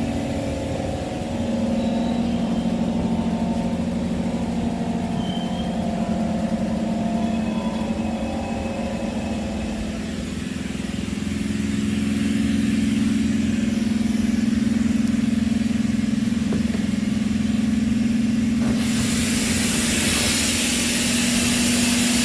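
Running noise inside an SMRT C151 train car: a steady low drone, with fainter whining tones over it in the first half. A loud hiss sets in suddenly about nineteen seconds in.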